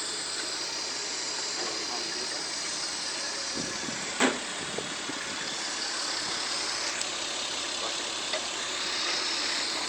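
Lexus IS300's 2JZ-GE straight-six idling steadily through aftermarket headers and an Apexi exhaust, with a sharp click about four seconds in.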